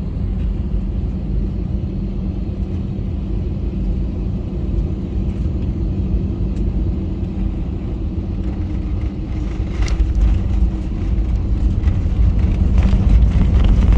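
Steady low rumble of a jet airliner's engines, with a constant hum running through it; it grows somewhat louder in the last few seconds.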